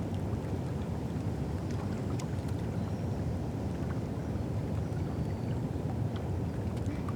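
Steady low rumble of riverside ambience by the Thames, with a few faint high ticks and brief faint chirps over it.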